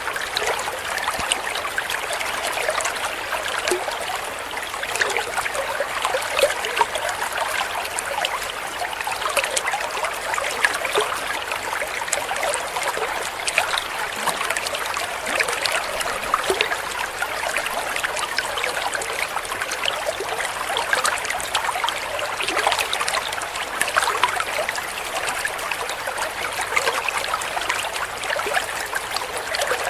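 Steady trickling, babbling water like a small stream, an even rush with fine splashing detail.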